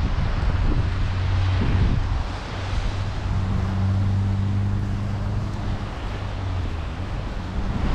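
Wind buffeting the microphone in a snowstorm: a loud, gusty rumble, with a steady low hum in the middle.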